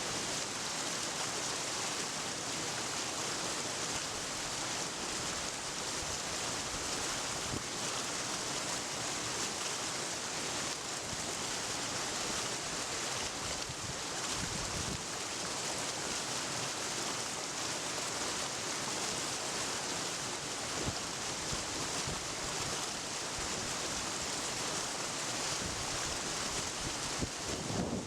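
Steady, even rush of flowing water, with no change in level.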